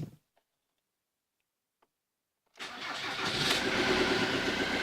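Near silence for about two and a half seconds, then the 2002 Ford Mondeo's 2.0 TDCi four-cylinder diesel engine sound comes in suddenly and runs steadily. The owner suspects an intake valve that is not closing properly, from carbon build-up or a sticking valve.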